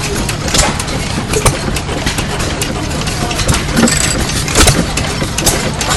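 Christensen Badger sideshaft hit-and-miss engine running, with sharp strokes and clicks at uneven intervals over a steady low rumble.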